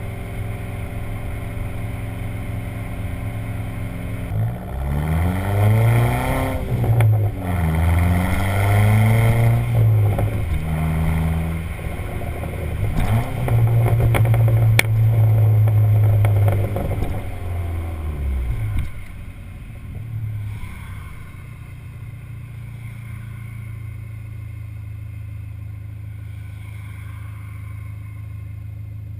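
Dodge SRT-4's turbocharged 2.4-litre four-cylinder engine, on a Stage 1 tune with the stock exhaust, idling, then revved up and down repeatedly for about fourteen seconds with a few sharp crackles from the exhaust as the revs drop. It then settles back to a quieter idle.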